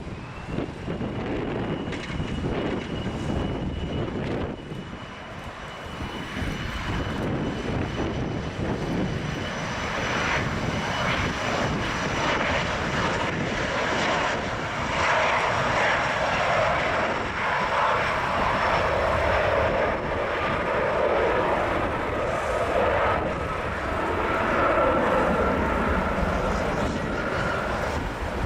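The twin Rolls-Royce AE 3007 turbofans of an Embraer ERJ-135LR at takeoff power, with a steady high whine over the first half. About halfway through the jet noise grows louder and fuller as the aircraft rolls and climbs out. Wind rumbles on the microphone underneath.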